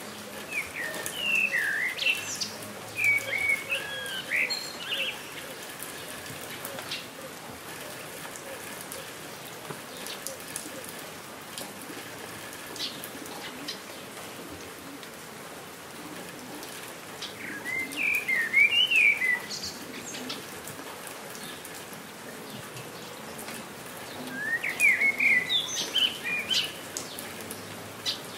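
Steady rain falling on the ground and foliage, with a songbird singing three short bursts of quick, twittering chirps: one near the start, one about two-thirds of the way in, one near the end.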